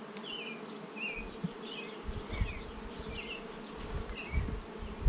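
A colony of honey bees buzzing around an opened hive, a steady, dense hum.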